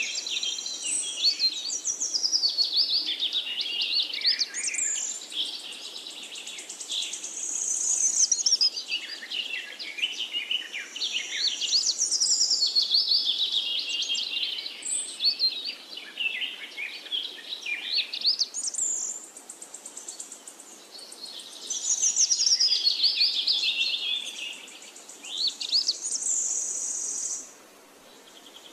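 Birds singing: many quick, high chirps and whistles that rise and fall, in waves, with stretches of a steady high trill. The sound drops away shortly before the end.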